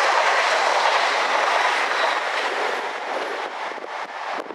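London Midland class 350 Desiro electric multiple unit passing close at speed, its wheels running loud on the rails, then fading from about two seconds in as it draws away.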